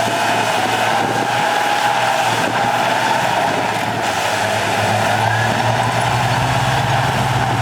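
Heavy earthmoving machinery running steadily: a diesel engine under working load with a thin whine riding above it, the low engine note growing stronger past the middle.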